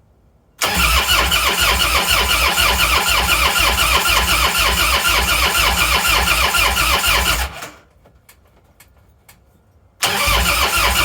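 Old Harley-Davidson motorcycle's electric starter cranking the engine on choke, turning it over in a steady pulsing rhythm for about seven seconds without it catching. It stops, a few clicks follow, and it cranks again near the end: a bike that won't start.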